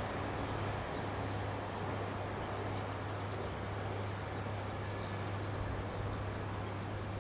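Rice combine harvester engine running steadily at a distance, a constant low hum under a haze of machine noise, with faint short high chirps over it.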